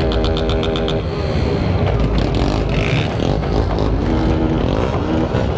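Motorcycle engines running at a busy bike meet, with a continuous low rumble and steady tones over it.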